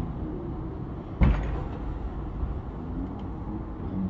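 Train running, heard from on board: a steady low rumble of the running gear, with one sharp clunk about a second in.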